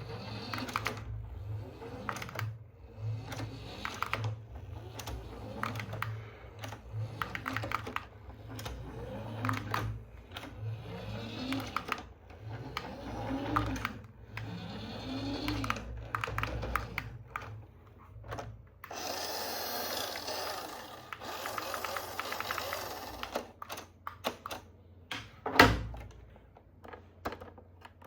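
Small electric motor of a remote-control toy vehicle, repeatedly whirring up and winding down, among clicks and knocks of hard plastic being handled. A steadier whirring stretch comes about two-thirds of the way in, and there is one louder knock near the end.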